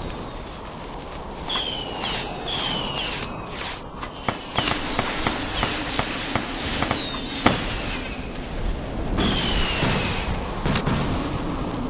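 Fireworks going off: a string of short whistles, each falling in pitch, one after another, mixed with sharp cracks and pops. The loudest is a single crack a little past halfway.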